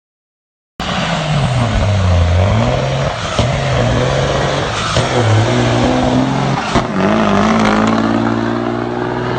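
A motor vehicle's engine running and revving, its pitch falling and then rising again. It cuts in suddenly about a second in.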